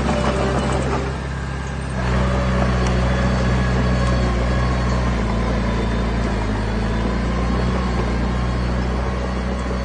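Heavy diesel engine of a working machine running steadily with a deep drone. It eases off briefly about a second in and picks up again at about two seconds.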